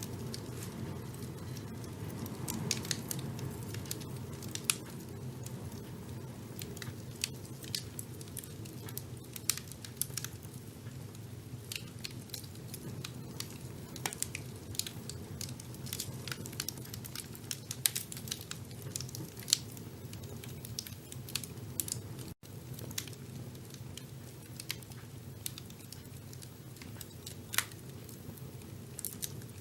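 Wood fire burning in a fireplace: a steady low rumble of flames under irregular crackles and pops, with a few louder snaps.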